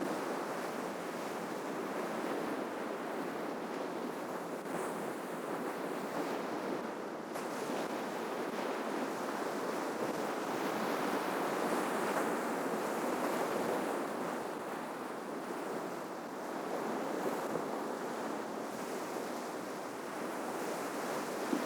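Ocean surf: waves breaking and washing on the shore in a continuous rush that swells and eases every few seconds, with some wind.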